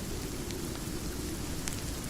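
Steady rain falling, with two faint crackles from a fireplace, about half a second in and near the end.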